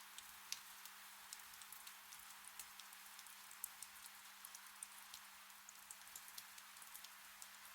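Gentle rain: a soft, steady hiss with many individual drops pattering at irregular intervals. A faint steady low hum sits beneath it.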